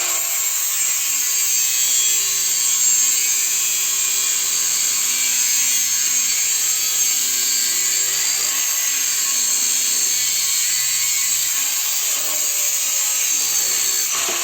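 Parkside 20 V cordless angle grinder (the brushed model) with a cutting disc cutting through a metal profile under load: a loud steady abrasive hiss over the motor's low hum.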